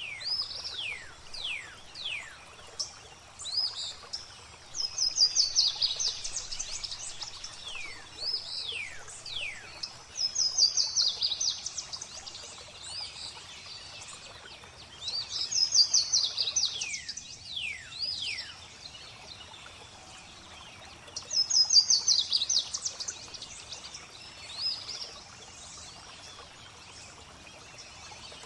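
Songbirds singing over gently flowing water: a quick high trill comes back about every five or six seconds, the loudest sound, with short falling whistles between the trills.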